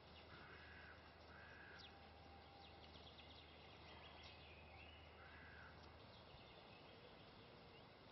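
Near silence: faint outdoor ambience with a few distant bird calls and chirps.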